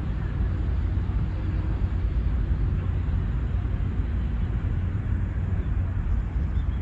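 Outdoor park ambience dominated by a steady low rumble, with a few faint high chirps near the end.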